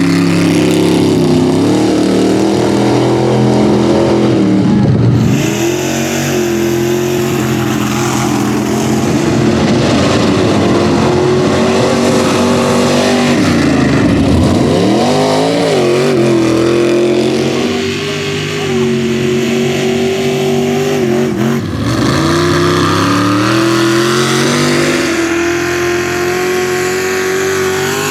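Mega mud truck engine running hard at high revs under load. The revs drop sharply and climb back three times.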